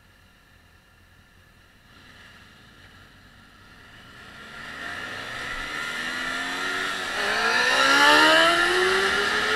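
Motorcycle engines pulling away from a standstill: faint at first, then from about halfway several engine notes climb in pitch together and grow loud, loudest about eight seconds in.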